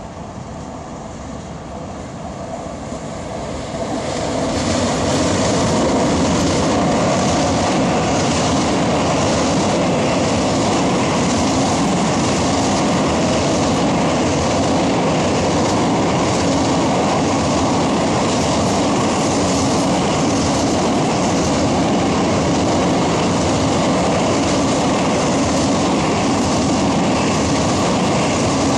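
Long intermodal freight train of container and swap-body wagons passing close by. Its rumble swells over the first four seconds as the front arrives, then holds steady with an even clickety-clack of wheels on the rails.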